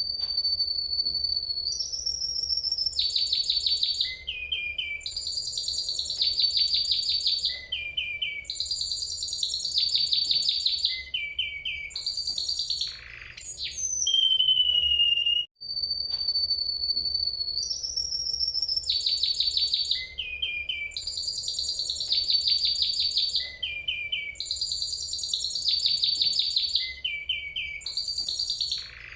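Spanish Timbrado canary singing a long song: a held whistle note, then rapid trills and rolls. The same song sequence plays twice, with a brief break about halfway through.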